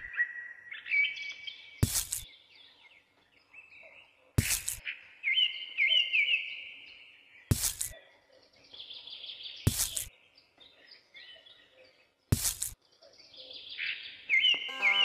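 Small birds chirping and trilling in short repeated phrases, broken five times by a short sharp knock a few seconds apart.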